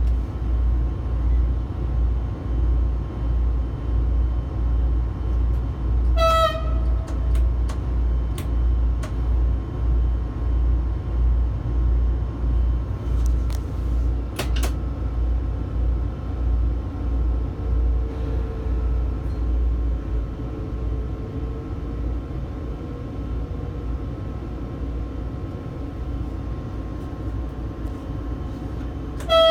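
Low, pulsing rumble in a train's driver cab that dies down over the second half. There is a short toot of the train horn about six seconds in, and a long horn blast begins right at the end. The horn is the small one and sounds weak, because the train's larger horn is frozen solid with snow and ice.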